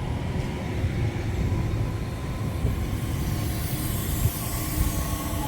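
Northern Class 331 electric multiple unit train running past, a steady low rumble with a faint steady whine, and a hiss that grows louder about halfway through.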